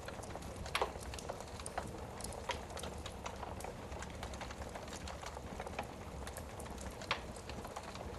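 Wood fire crackling in a fireplace: irregular snaps and pops over a steady low hiss of flame, with a louder pop a little under a second in and another about seven seconds in.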